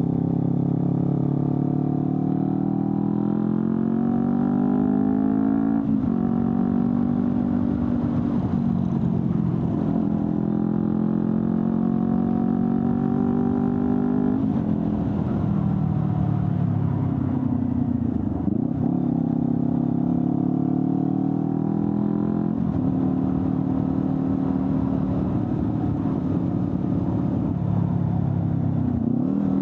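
Honda CBR250RR's parallel-twin engine through an Akrapovic slip-on exhaust, accelerating under way. Its note rises through each gear and drops sharply at three upshifts, with quick dips and recoveries in between where the throttle is rolled off and reopened.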